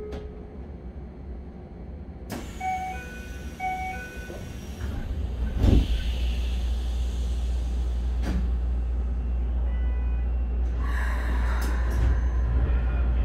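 Inside a Keikyu 1000-series electric train car: two pairs of short electronic beeps, then a sharp thump about five and a half seconds in, followed by a steady low rumble from the car that slowly grows louder.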